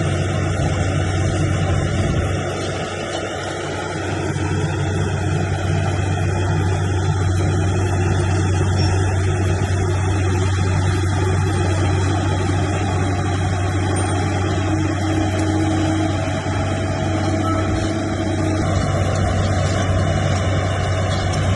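Heavy earthmoving machine's diesel engine running steadily under load, a constant low drone without breaks.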